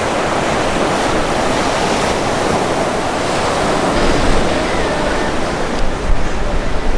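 Ocean surf washing in as a steady rush of waves. From about halfway through, wind rumbles on the microphone.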